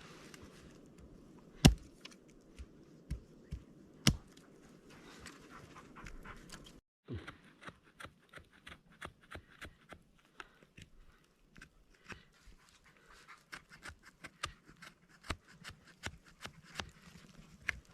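A dog panting, with two sharp knocks in the first few seconds. After a brief break, a steady run of short clicks and crunches follows.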